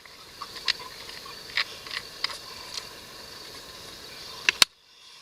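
Wood campfire crackling: irregular sharp pops over a steady hiss, with two loud pops close together about four and a half seconds in, after which the sound cuts out abruptly.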